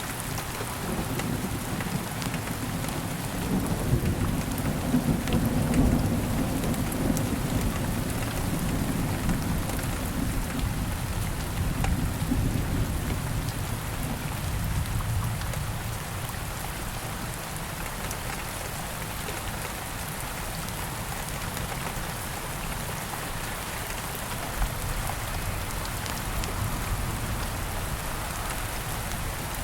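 Steady rain falling, with a low roll of thunder that builds a few seconds in, is loudest around five to seven seconds and dies away by about halfway.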